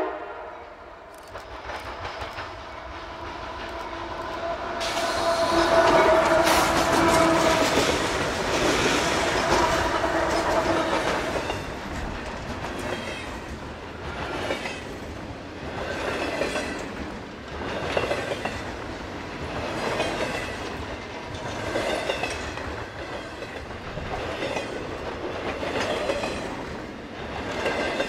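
CSX freight train led by three GE diesel locomotives (AC6000CW, Dash 8-40CW, AC4400CW) approaching and passing, loudest about six to ten seconds in. Double-stack intermodal well cars then roll by, their wheels clacking in a regular beat about every two seconds.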